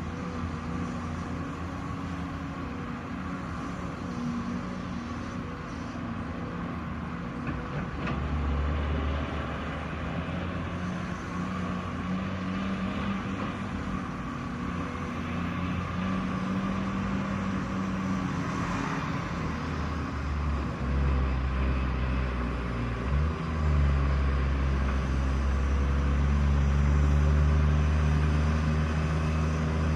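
Heavy diesel engine of earthmoving machinery running with a low rumble, its pitch shifting, and growing louder and heavier in the last third.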